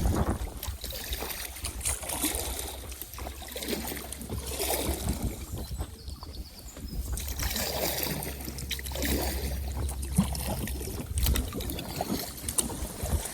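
Choppy lake water splashing and sloshing around a kayak, with irregular splashes, over a steady low wind rumble on the microphone.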